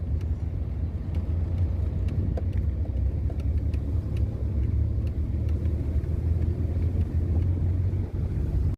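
Car driving at steady speed: a constant low rumble of engine and road noise heard from inside the car.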